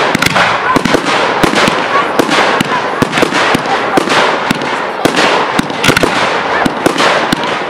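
Fireworks display: a dense, unbroken run of bangs and crackling, several reports a second over a steady crackle.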